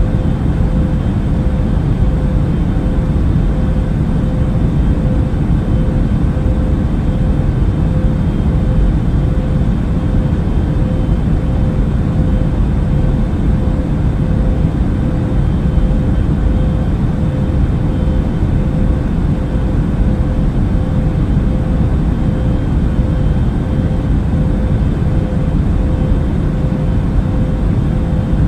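Airplane cabin noise in flight: a steady low rumble of engines and rushing air, with a steady hum running through it.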